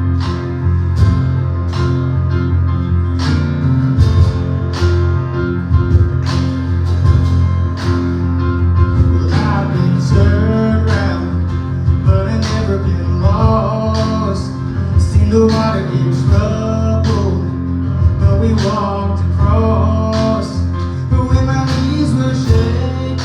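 Worship band music: acoustic guitar over a steady beat, with a melody line coming in about ten seconds in.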